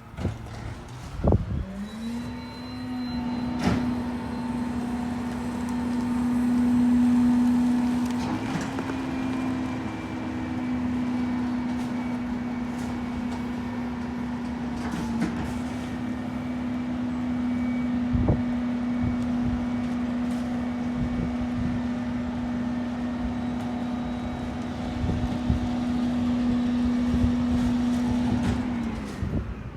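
Rear-loader garbage truck engine and hydraulics held at a raised, steady speed with a strong steady whine, as for a packer compaction cycle. The whine climbs about a second in and drops back near the end, with occasional knocks and clanks.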